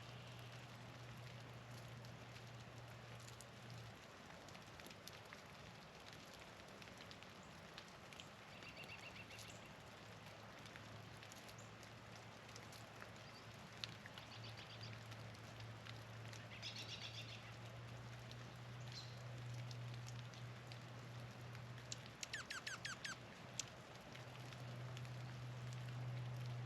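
Faint short songbird calls a few times, with a quick run of falling notes a little after twenty seconds in, over a steady low hum and scattered light ticks.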